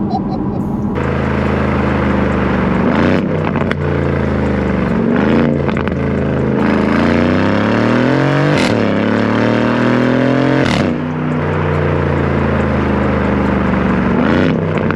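2020 Aston Martin Vantage's twin-turbo V8 with a Quicksilver straight-pipe exhaust, heard from inside the cabin while driving. The engine note rises through the revs and is cut by a sharp crack at each of two upshifts about two seconds apart, then settles to a steady drone. Part of what reaches the cabin is engine sound played through the car's speakers, as the driver suspects.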